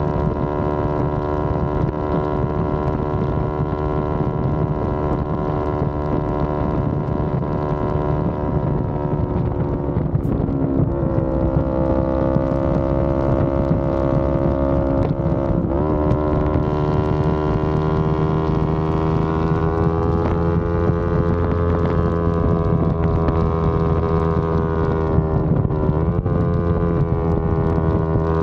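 Yamaha R25's 249 cc parallel-twin engine running under way at a fairly steady pitch, dipping briefly three times, as at gear changes. Wind noise on the microphone runs underneath.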